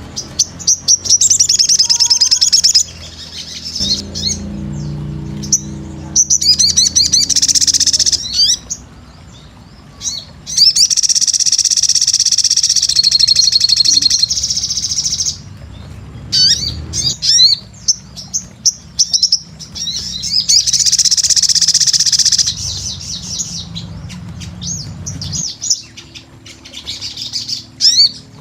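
Sunbird (sogon) singing vigorously in rapid high chirps and trills, with long unbroken twittering phrases that start and stop abruptly, over a low background hum.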